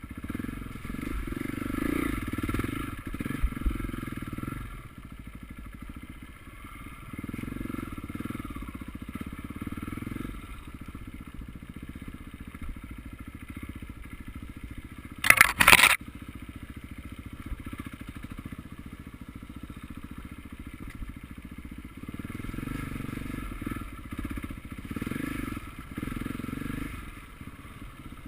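Motocross motorcycle engines running and revving, swelling and fading as bikes come and go. About halfway through there is a short, loud rush of noise lasting under a second.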